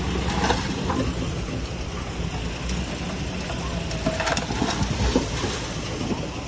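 Diesel engine of a small Komatsu D21P crawler bulldozer running steadily, with irregular clanks and rattles over it from the tracks and stone.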